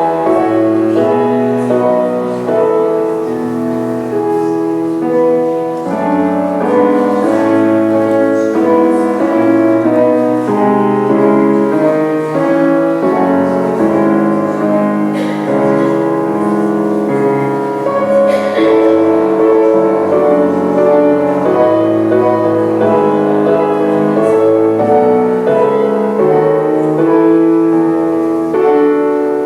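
Piano music, slow and sustained, played as a prelude.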